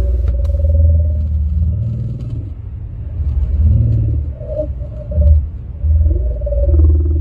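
Strange moaning tones from a car radio that bend up and down in pitch and come and go every second or so, over the low rumble of the car on the road.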